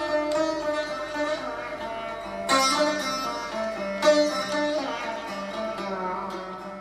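Sursingar, a fretless plucked string lute, playing a slow Hindustani classical melody with notes sliding between pitches. Two strings are struck hard about two and a half and four seconds in, and the playing fades away near the end.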